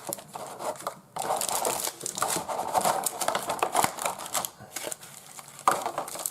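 Plastic and foil packaging of a Pokémon card box being handled: crinkling and tearing, strongest from about a second in, easing off later with one sharp crackle near the end.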